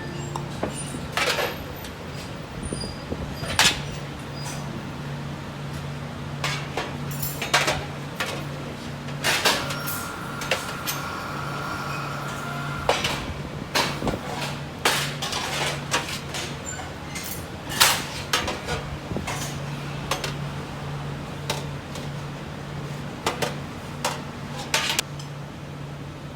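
Irregular knocks and clanks of hard objects being handled, scattered unevenly over a steady low hum, with a brief steady tone about ten seconds in.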